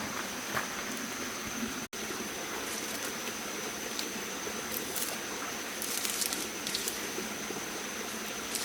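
Steady rush of running water with scattered small splashes, and a faint steady high tone over it. The sound cuts out completely for an instant about two seconds in.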